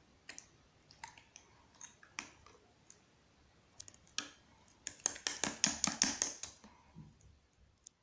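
Gold pearl slime being pressed and squeezed by hand, making wet clicking pops. The pops are scattered at first, then a quick run of louder pops comes about five seconds in and stops about a second and a half later.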